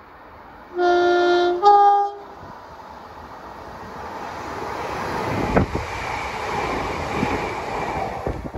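Diesel multiple unit sounds its two-tone horn, a lower note then a higher one, about a second in. It then approaches and runs past below, its engine and wheel noise building to a peak about halfway through.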